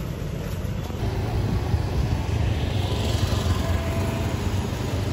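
Electric commuter train running along the track: a steady low rumble, with a hiss that swells and fades about three seconds in.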